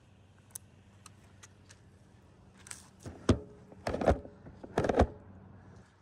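Knocks and clinks of gear and wood being handled up in the tree. There are a few light clicks, then three louder clattering knocks in the second half, some with a short metallic ring.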